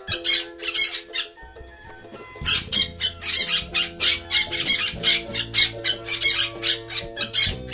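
Parrot squawking in quick repeated calls, about three or four a second, breaking off for about a second early on and then resuming, over steady background music.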